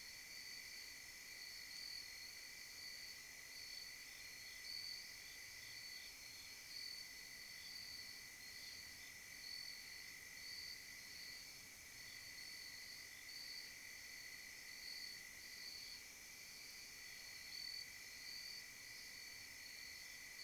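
Steady chorus of night insects: two continuous high trills, the higher one pulsing unevenly.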